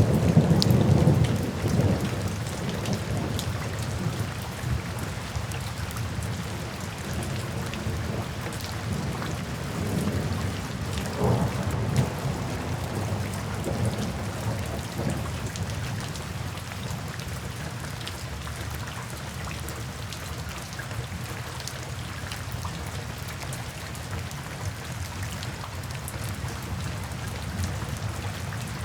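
Steady night rain with soft rolling thunder. The low rumble is heaviest in the first two seconds and swells again about ten to twelve seconds in, then eases to mostly rain.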